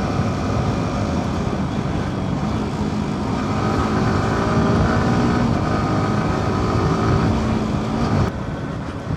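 Yamaha R15's single-cylinder engine running under way, its pitch climbing a little and growing louder a few seconds in, then dropping away suddenly near the end.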